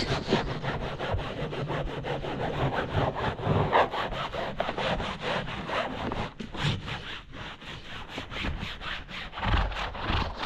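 Rapid, even back-and-forth scrubbing strokes, about four or five a second, of a dirty surface being cleaned by hand, with a brief pause now and then.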